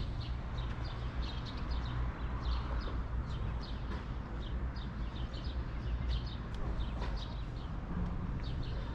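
Small birds chirping, with many short, high, quickly repeated calls, over a steady low rumble.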